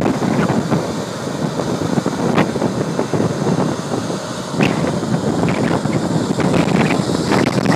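Airbus A340-300's four CFM56 turbofan engines at takeoff thrust, a dense steady jet noise, with the jet blast buffeting the microphone in irregular gusts.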